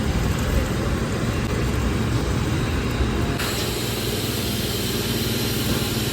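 Steady engine and road rumble of a motor vehicle heard from inside, with a low hum and an abrupt change in its hiss about three seconds in.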